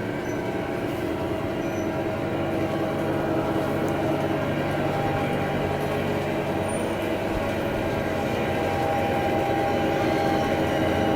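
Long garden railway model train rolling along its track, the wheels of its many cars making a steady rolling noise that grows slowly louder as it approaches.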